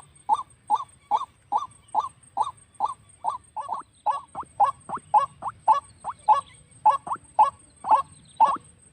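White-breasted waterhen giving its repeated croaking call, a steady string of short notes about two to three a second. From about four seconds in, a second run of calls joins in between them, doubling the pace.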